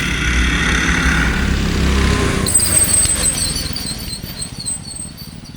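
Minibike's small gas engine running hard, then fading away over the last few seconds as it pulls off down the track.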